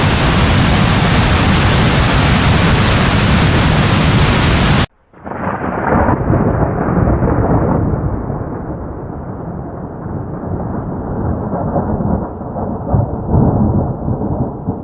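Heavy rain pouring in a loud, steady hiss for about five seconds, then an abrupt cut to deep rolling thunder, a muffled rumble that swells and fades for the rest of the time.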